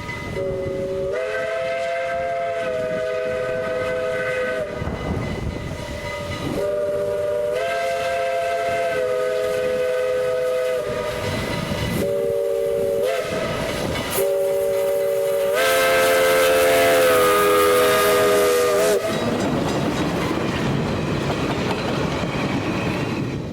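Little River Railroad 0-4-0 #1's steam whistle blowing a chord of several tones in four blasts (long, long, short, long), the pattern of a grade-crossing signal. After the last blast there is a rushing hiss of the train running.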